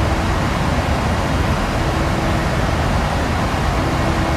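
Steady rushing noise of a Boeing 737-800 in climb, the engines and airflow heard from inside the aircraft, with a faint hum that comes and goes.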